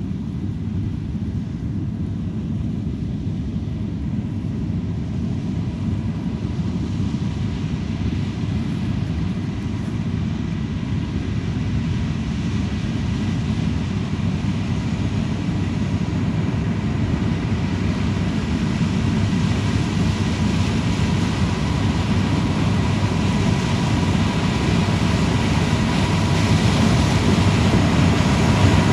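Heavy farm machine's diesel engine running steadily under load, a deep rumble with a faint steady whine above it, slowly growing louder.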